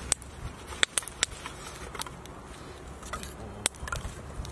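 Fire crackling as the newly added charcoal catches: irregular sharp pops and snaps every half second or so over a low, steady rumble.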